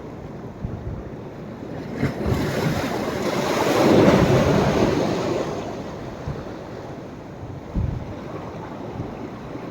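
Sea waves breaking and washing up the beach: the surf noise swells to a peak about four seconds in, then fades. Wind gusts on the microphone add brief low thumps, once about two seconds in and again near the end.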